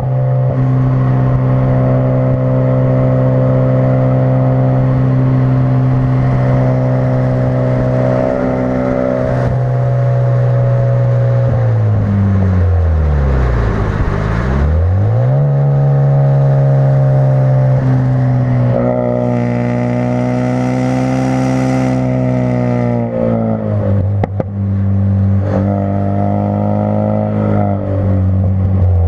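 2016 Ford Focus RS turbocharged 2.3-litre four-cylinder engine running through a custom-fabricated exhaust. It holds steady revs, then the revs drop sharply and climb back about halfway through, and rise and fall again near the end.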